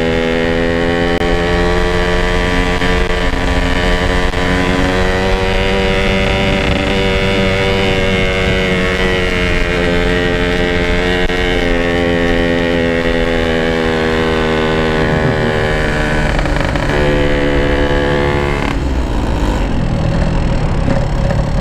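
Yamaha RX-King's two-stroke single-cylinder engine running steadily under way through its stock-pattern exhaust, its pitch wavering a little with the throttle. The note turns duller about three seconds before the end.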